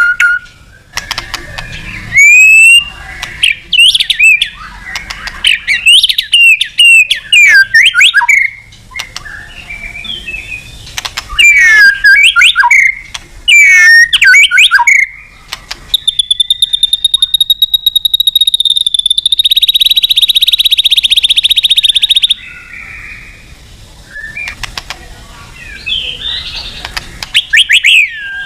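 White-rumped shama (murai batu) singing loudly in full song: quick, varied whistled phrases and trills. About halfway through comes a long held high whistle that breaks into a fast rattle.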